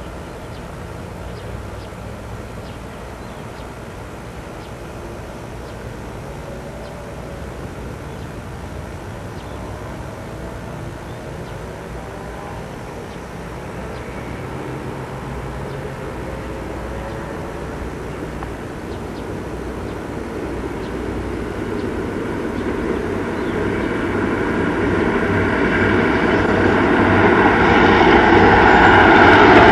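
A train approaching, its running noise steady at first, then growing steadily louder through the second half until it is loud at the end.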